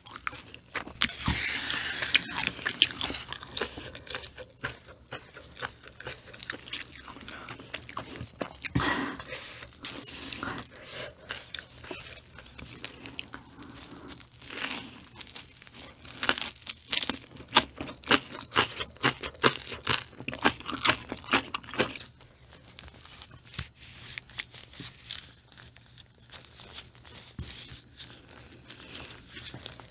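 Close-miked eating of crunchy food: irregular crunches and chewing clicks, with a loud bout of crunching about a second in and softer chewing in the last third.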